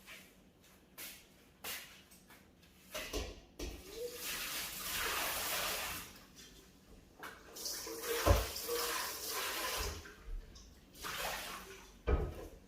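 Water running in two stretches of about two seconds each during kitchen cleaning, with knocks and clatter of objects being handled in between, the loudest knock coming just past the middle.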